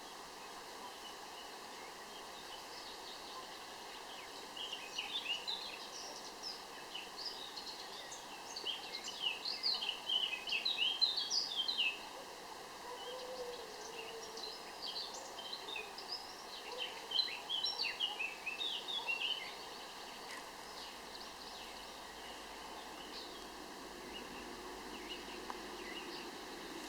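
A songbird singing in rapid runs of high chirping notes, in two bouts of roughly eight and five seconds, over a steady faint background hiss.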